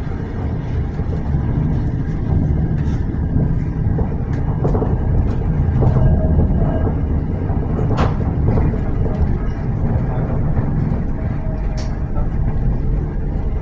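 Tram rolling along its track, heard from inside the car: a steady low rumble with scattered clicks and rattles, one sharper click about eight seconds in.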